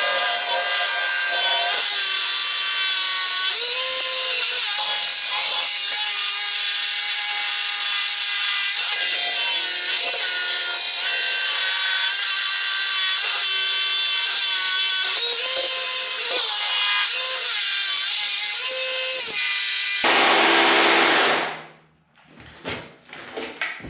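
Power drill boring a hole into old, hard concrete, with the motor's whine shifting as it works under load. It runs steadily for about twenty seconds, then stops near the end.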